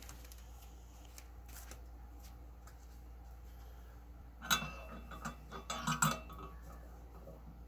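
Steel weight plates and the Ironmind Rolling Thunder handle clanking and rattling on the loading pin in two short bursts, a second and a half apart, as the loaded handle is moved. A steady low hum underneath.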